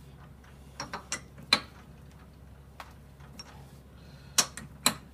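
Sharp metallic clicks and knocks from a chuck key working the jaws of a lathe's 4-jaw chuck while a steel slug is centred: about five in all, the two near the end loudest, over a faint low hum.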